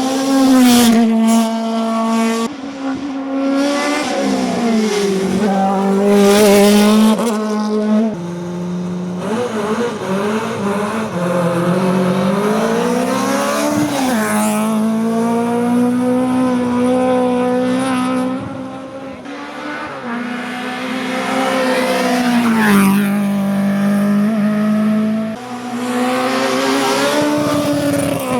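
Racing car engine at full throttle on a hillclimb, its pitch climbing and dropping repeatedly through gear changes and lifts.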